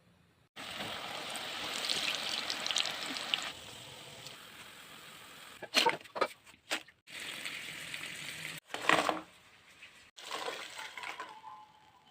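Nimki dough pieces deep-frying in hot oil, a dense sizzling and crackling that starts abruptly and later drops away, followed by a few loud sharp clatters around the middle.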